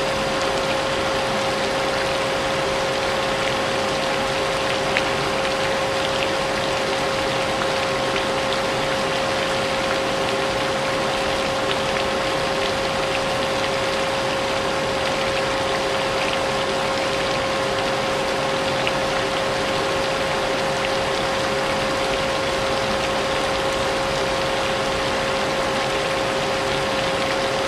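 Vacuum cleaner running steadily, its motor holding one constant whine, layered with the hiss of falling rain.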